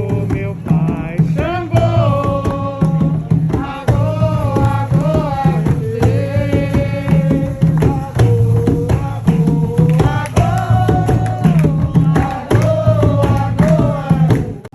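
Candomblé ritual song: voices singing a melody over hand drums beating a steady repeated rhythm.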